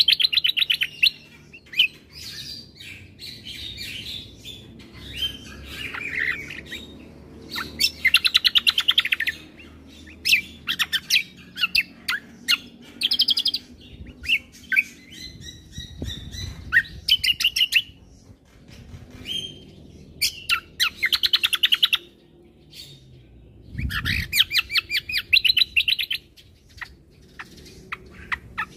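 Kecial kombo (cucak kombo) songbird singing a varied song of fast rattling trills and chattering phrases, each a second or two long with short pauses between.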